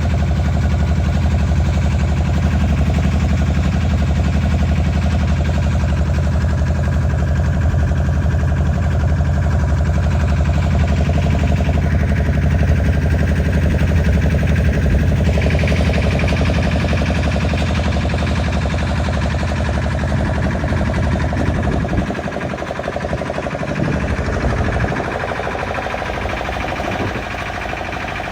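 Tour boat's engine running steadily at cruising speed with a deep, even hum, along with water and wind noise; about three quarters of the way through, the low engine note drops away sharply, as if the throttle is eased back.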